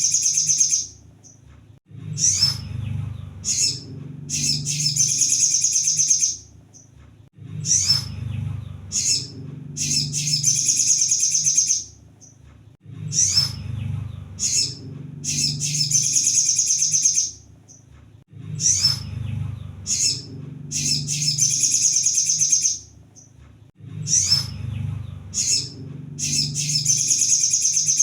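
Kolibri sogon sunbird singing: short high chirps, then a fast, dense high-pitched trill about two seconds long, repeated in a cycle of about five and a half seconds, over a low background rumble.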